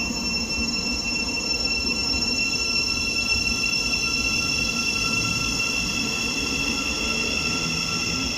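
Passenger train moving past close by at a platform: a low rumble with a steady, high-pitched whine in several tones laid over it.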